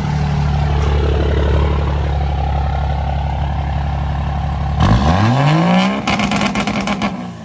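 Turbo diesel pickup engine idling steadily, then revved hard about five seconds in, its pitch rising fast until it bounces off a hard rev limiter in a rapid stutter for about a second before dropping back.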